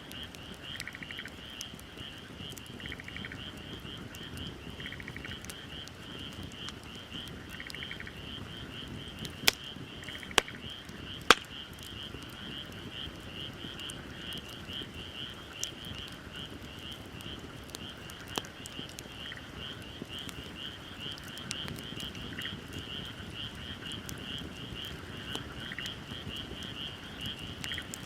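Frogs calling in a steady, rapidly pulsing chorus, with another caller adding short bursts every couple of seconds in the first third. A wood fire crackles, with a few sharp pops: three close together about a third of the way in and one more a little later.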